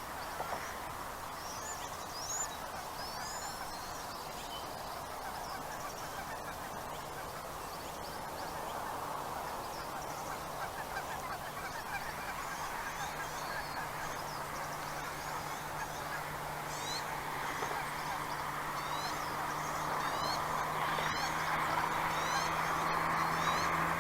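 Many birds calling at once: a dense chatter of honking calls with quick rising chirps over it, growing louder toward the end. A low steady hum runs underneath from a few seconds in.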